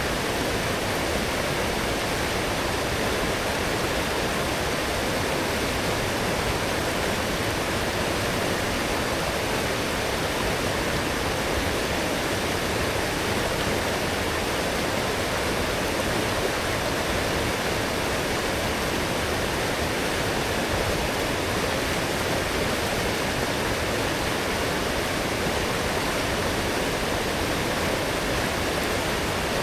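Fast-flowing forest stream swollen by heavy rain, rushing water at a steady level throughout.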